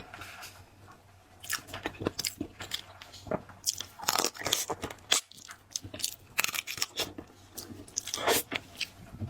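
Close-up eating of shell-on seafood: sharp crunching and chewing, with bites coming thick and fast from about a second and a half in.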